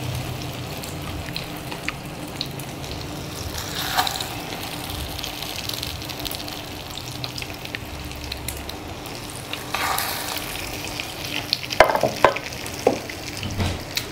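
Egg-dipped chicken and potato cutlets shallow-frying in a little oil in a pan: a steady sizzle, flaring louder about four, ten and twelve seconds in as more cutlets go into the hot oil.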